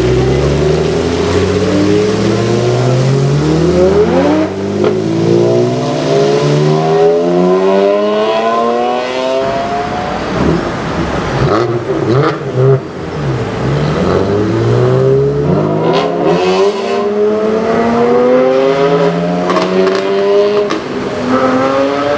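BMW 1M's twin-turbo straight-six with a loud aftermarket exhaust accelerating hard, its pitch rising through several gears. About halfway through it crackles and pops off the throttle, then pulls up through the gears again.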